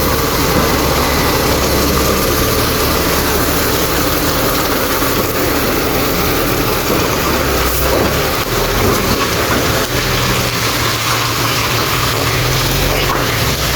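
Bulldozer's heavy diesel engine running steadily, with a dense hiss of noise over it.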